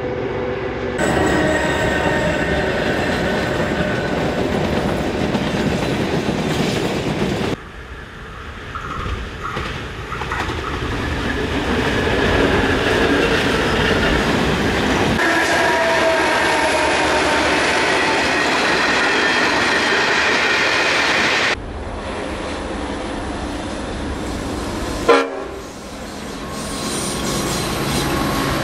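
Freight trains hauled by EMD JT26C-2SS diesel-electric locomotives rumble past in a string of short takes, the wagons clattering over the rail joints. In some takes steady high tones come from a horn or the wheels. Near the end there is one sharp bang.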